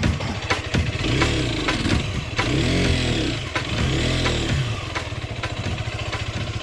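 Derbi Terra 125 motorcycle's single-cylinder engine running at low speed, the revs rising and falling three times, with occasional sharp knocks.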